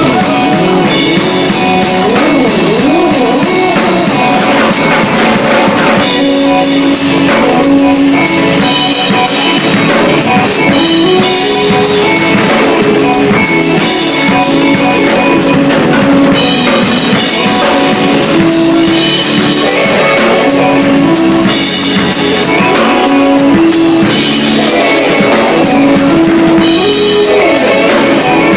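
Keyboard-made electronic music: synth and bass lines with stepping melody notes over a steady programmed drum beat, playing loud and continuously.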